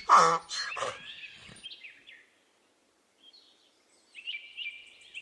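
A donkey braying in pulsing, harmonic-rich calls that end about a second in. Faint chirps follow, then a short quiet stretch, then rapid, repeated high chirping from about four seconds in.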